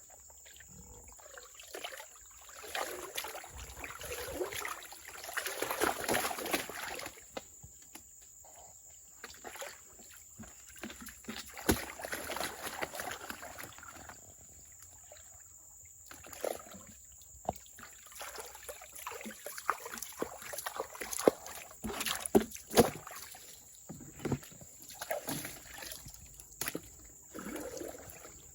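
Water sloshing and splashing in irregular swells, with sharp knocks and clicks scattered through, over a faint steady trickle.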